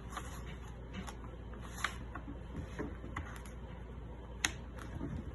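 A sheet of paper being folded and creased by hand: scattered soft crinkles and taps, the sharpest about four and a half seconds in.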